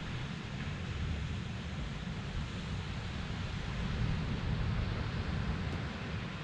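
Steady rushing wind and surf noise with a low rumble of wind buffeting the microphone.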